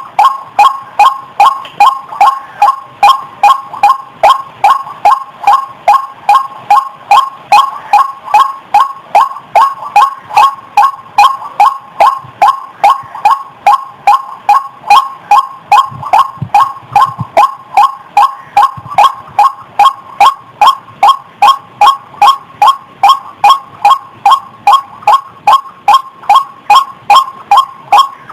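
White-breasted waterhen (ruak-ruak) calling its repeated 'kwak' note, about two to three calls a second in a steady, unbroken rhythm; a recording played as a lure call to draw the birds in.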